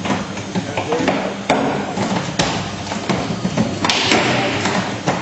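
Metal shear wall panel under cyclic earthquake loading: the sheet metal pops, knocks and bangs as it buckles back and forth. Several sharp bangs stand out over a steady noise.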